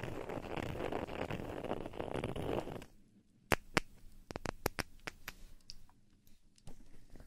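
Close-miked ASMR scratching and rustling on the microphone, which stops sharply about three seconds in. A string of sharp taps or clicks follows, then it goes nearly quiet.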